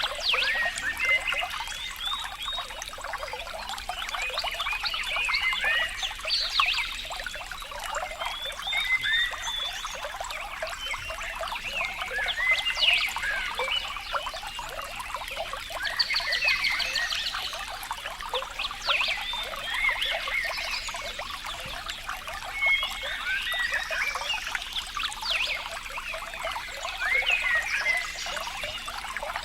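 Water trickling and splashing steadily, with many short chirping animal calls over it.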